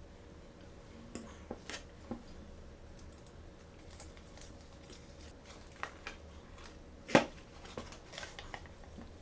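Hands handling small plastic toys and their packaging: scattered light clicks and taps, the loudest a single sharp click about seven seconds in.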